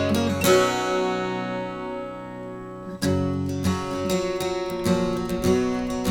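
Background music of strummed acoustic guitar. A chord struck about half a second in is left to ring and fade, then strumming picks up again about three seconds in.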